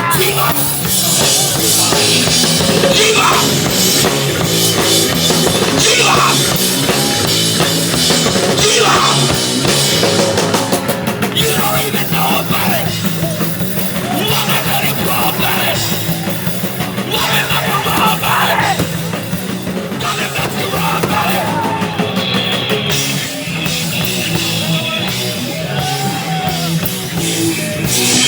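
Hardcore punk band playing live at full volume, with a pounding drum kit driving the song.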